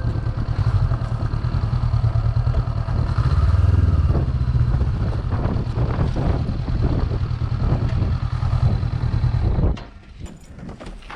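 Motorcycle engine running, then cut off suddenly near the end, followed by a few light clicks and knocks.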